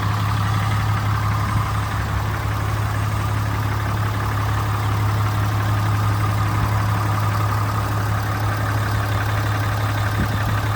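Ram 3500 pickup truck's engine idling steadily.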